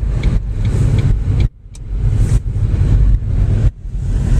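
Car driving, heard from inside the cabin: a heavy low rumble with a hiss above it, dropping out abruptly for moments about half a second in, near one and a half seconds, and near the end.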